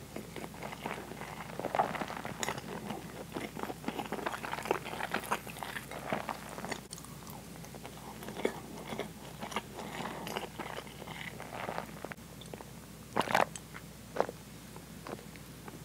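Close-miked chewing and wet mouth sounds of a person eating a meal of soy-braised pork, fried tofu and rice. Near the end come two loud gulps as a drink is swallowed from a glass.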